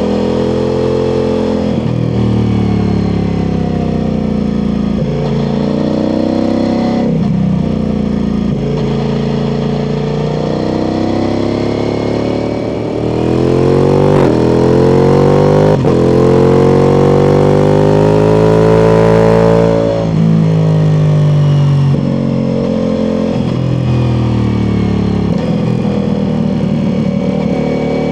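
Ducati Multistrada V4 Pikes Peak's V4 engine through an Akrapovic exhaust, under way with the revs rising and falling as the throttle changes. About halfway through a long pull sends the pitch climbing for around six seconds with a brief break, then it drops suddenly and settles back to cruising.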